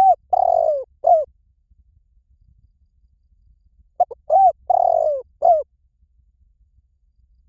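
Spotted dove cooing: one call phrase at the start and another about four seconds in. Each phrase is a few short coos, then a longer coo falling in pitch, then a short final coo.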